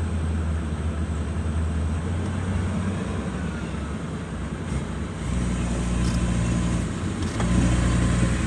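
Hino diesel dump truck engine pulling hard under a full load of sand. The engine note changes about five seconds in and grows louder near the end.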